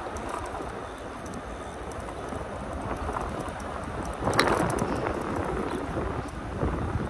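Wind rushing over the microphone and fat-tyre rolling noise from a moving e-bike, with a louder rush about four and a half seconds in.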